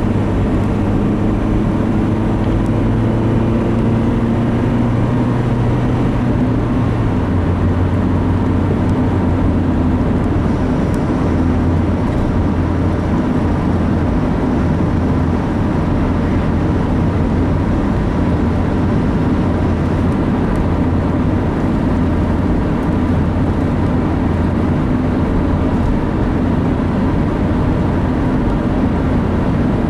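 Engine and road noise heard inside a moving vehicle's cab: the engine hum rises slowly in pitch for the first several seconds, drops slightly about seven seconds in, then holds steady at cruising speed.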